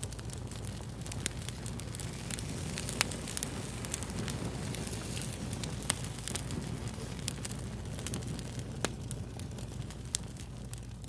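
Wood fire crackling: a steady hiss full of small rapid pops, with a handful of louder snaps scattered through.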